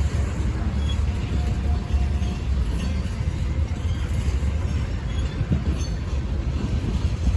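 CSX freight train rolling past on the rails: a steady low rumble with faint clatter and a few brief squeals.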